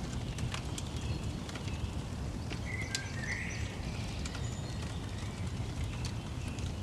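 Wood fire crackling with a steady low rumble, scattered sharp pops, and small birds chirping over it, with a brief brighter trill about three seconds in.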